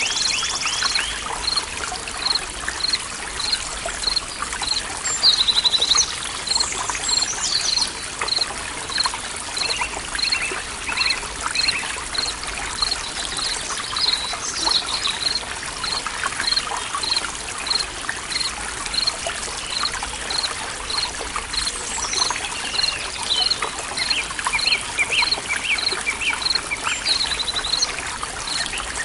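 Forest ambience of trickling stream water with birds calling. One bird repeats a short high note evenly, about twice a second, and other birds chirp and trill now and then.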